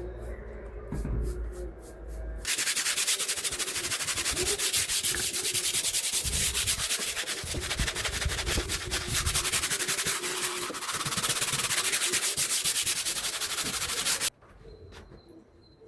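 A loud, harsh, continuous rubbing or sanding noise that starts suddenly about two and a half seconds in and cuts off suddenly near the end.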